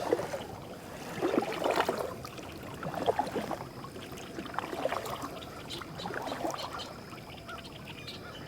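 Canoe paddle strokes in the water: a swish and splash with trickling drips about every one and a half seconds, five strokes in all.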